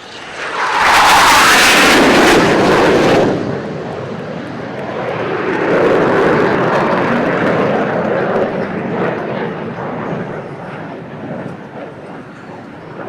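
Jet aircraft flying past: a loud rushing jet noise swells in within the first second and drops away about three seconds in, then a second, lower jet rumble swells and slowly fades.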